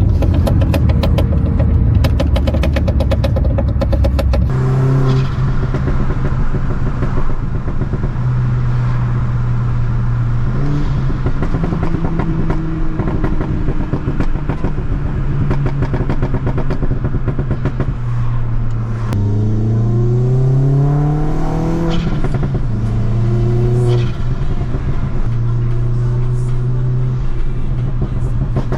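Škoda Octavia RS's turbocharged 1.8-litre four-cylinder engine running, its pitch shifting up and down and climbing steeply in one rev about twenty seconds in.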